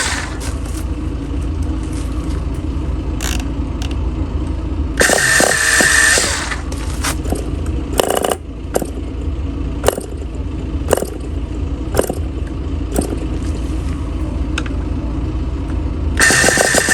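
Enya .15CX two-stroke glow engine on a test bench being started up: a steady low rumble broken by short, loud, even-pitched whirring bursts about five seconds in and again near the end, with scattered sharp clicks in between.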